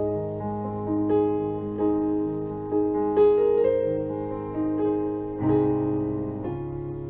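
Slow, gentle piano music, chords and single notes struck about one to two a second and left to ring.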